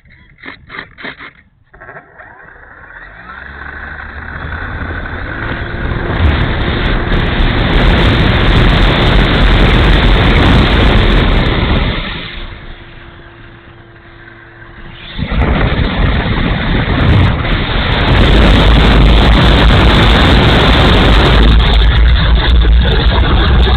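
Strong wind buffeting the microphone: a loud, rumbling rush that builds over the first few seconds, eases for a few seconds midway, then comes back as strong, with a faint steady tone beneath it in the first half.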